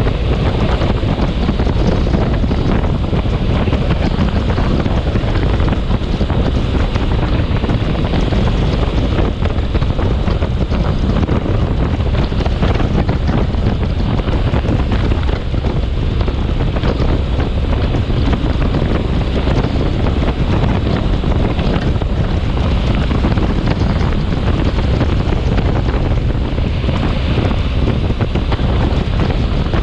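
Storm wind blowing hard and buffeting the microphone: a loud, steady rushing rumble.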